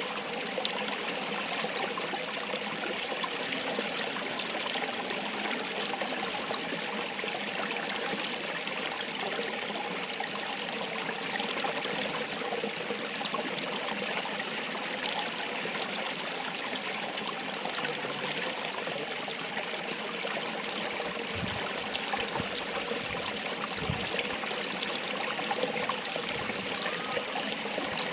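Running water of a stream flowing steadily, an even rushing and trickling without a break. A few soft low bumps sound about three quarters of the way through.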